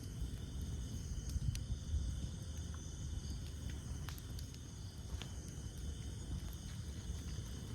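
Campfire burning with a steady low rush of flames and scattered sharp crackles and pops of burning wood. Insects chirp steadily in the background.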